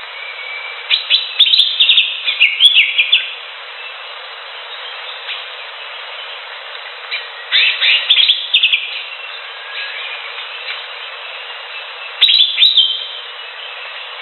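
Green leafbird (cucak hijau) singing in three bursts of rapid, high, gliding chirps, about a second in, near the middle and near the end, over a steady background hiss.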